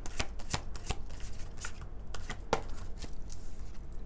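Tarot cards being shuffled by hand, a quick run of irregular flicks and snaps.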